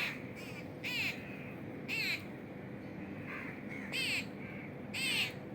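Crows cawing repeatedly, short harsh calls coming about once a second, over a faint steady hum.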